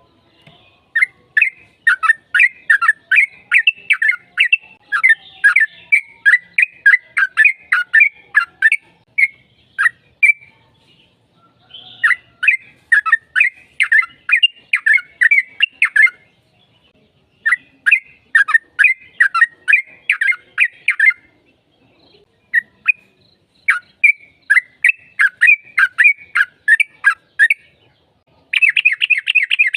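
Yellow-vented bulbul (trucukan) singing a lively song: long runs of rapid chattering notes, each lasting a few seconds, broken by short pauses, with a faster, denser burst near the end.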